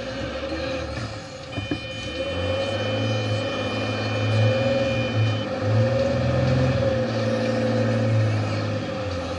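Off-road vehicle's engine running as it drives slowly over soft sand, heard close from the bonnet. The engine note gets heavier about two seconds in as it takes more load, and a steady whine runs under it.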